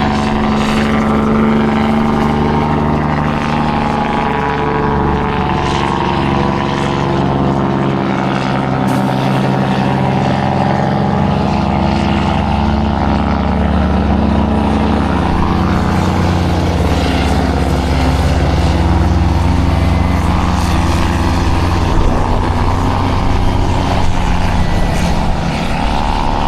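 Heavy dump truck's diesel engine running steadily under load, a deep even drone whose low note shifts about ten seconds in.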